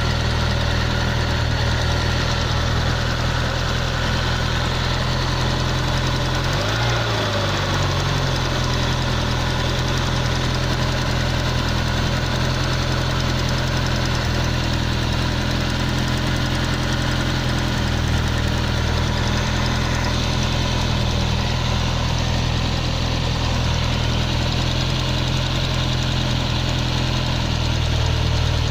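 Car engine idling after a cold start, with an abnormal noise coming from the cylinder at the driver's-seat end of the engine. The idle is steady apart from a brief dip in pitch about seven seconds in.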